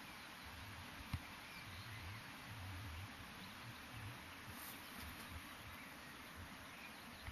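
Quiet outdoor ambience: a faint steady hiss with a few faint low rumbles and a single sharp click about a second in.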